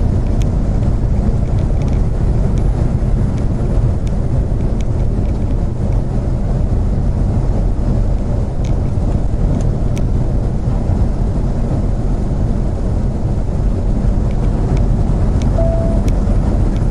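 Steady road noise of a car driving at highway speed, heard from inside the cabin: an even low rumble of tyres and engine with a few faint ticks.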